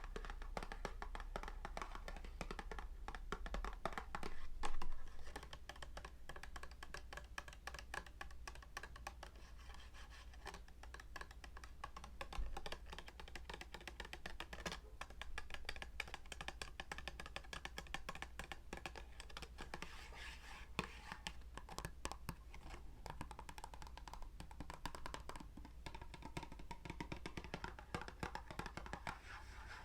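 Rapid light tapping and scratching on objects close to the microphone: a dense run of small clicks, with a louder flurry about five seconds in.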